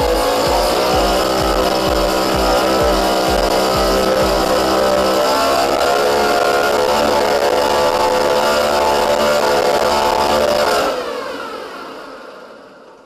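British Seagull two-stroke outboard motor running at a steady speed, with a regular low throb in the first few seconds. About eleven seconds in the engine note stops, and the sound dies away over the last two seconds.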